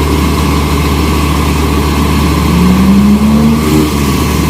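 Diesel engine of heavy road-construction machinery running loud and steady, its engine note rising and strengthening from about halfway through as it works harder.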